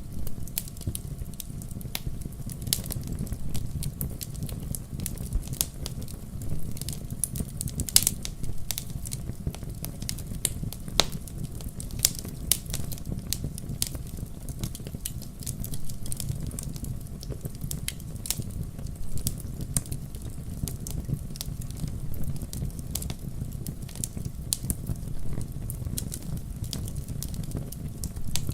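Wood fire crackling steadily, with frequent sharp pops and snaps over a low, even rumble of flame; the sharpest pop comes about eight seconds in.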